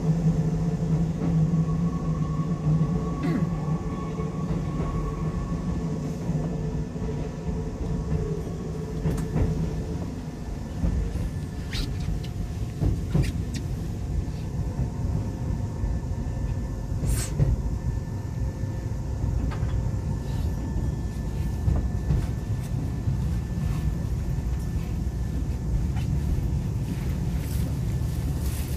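Keisei 3500 series electric train heard from inside the passenger car, running and slowing as it nears its terminus. Its motor hum, a few steady tones, fades out about ten seconds in. Rumbling wheel and track noise follows, with a few sharp clacks from rail joints or points.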